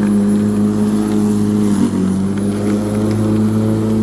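Black & Decker 1800 W electric rotary lawnmower running steadily, a loud, even motor hum with a faint high whine, its pitch dipping briefly about two seconds in.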